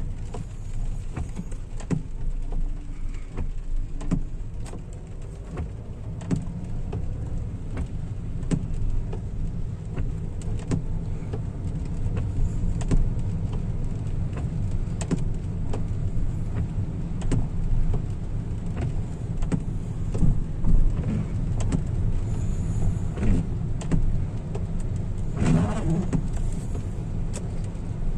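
Inside a moving car in the rain: steady low road and engine rumble, with irregular sharp ticks of raindrops on the car. About 25 seconds in a brief louder sweeping sound passes.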